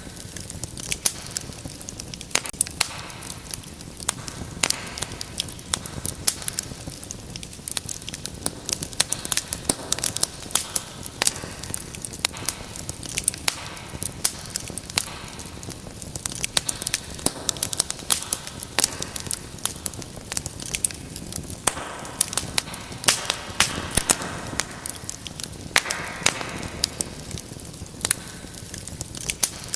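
Wood fire burning in a fireplace: steady crackling with frequent sharp pops over a low rush of flame, with brief soft hisses now and then.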